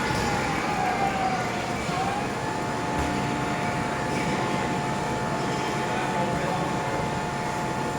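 Blower of a floating-ball air-jet exhibit running, a steady rush of air with a constant whining tone.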